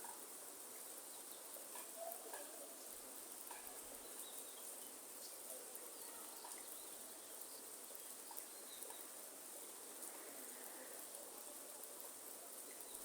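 Rain falling in a rainforest: scattered drops ticking over a steady hiss, with faint bird chirps and a steady high insect drone.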